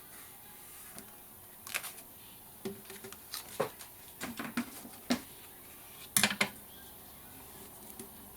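Hands working with paper craft materials: a scattered series of short taps, clicks and paper handling noises, the loudest cluster about six seconds in.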